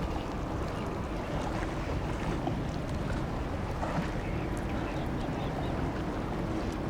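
Steady low rumble of a container ship under way, blended with wind and water noise.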